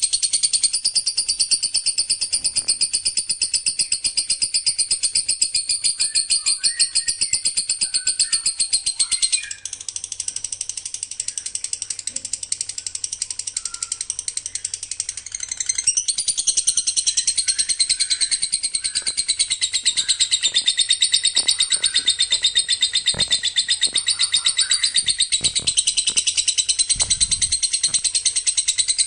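Recorded songbird song made of rapid-fire 'tembakan' phrases: a dense, high-pitched trill of very fast repeated notes that barely pauses. It breaks off briefly about a third of the way in and returns in a new pattern about halfway through.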